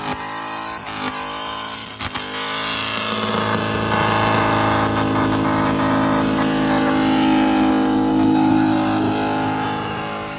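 A truck engine blips in short revs for about two seconds, then is held at high revs for several seconds with a hiss over it, as in a burnout, and eases off near the end.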